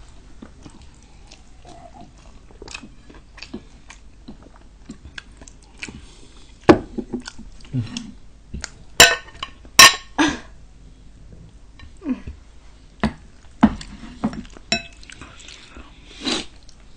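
Close-up sounds of eating: chewing, biting and mouth noises on fried chicken, fries and noodles, broken by scattered sharp clicks and knocks of utensils against dishes, the loudest about seven, nine and ten seconds in.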